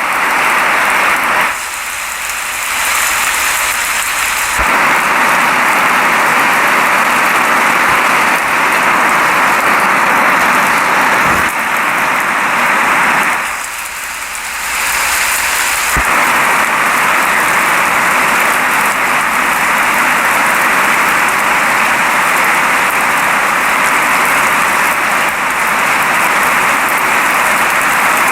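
Rain falling steadily, a dense even hiss that thins briefly twice, about two seconds in and again near the middle.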